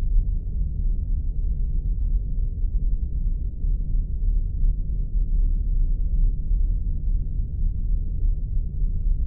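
Synthesized spaceship engine ambience: a steady deep rumble, with nothing above the low range.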